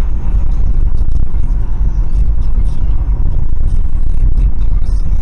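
Loud, steady low rumble of a car in motion: road and engine noise.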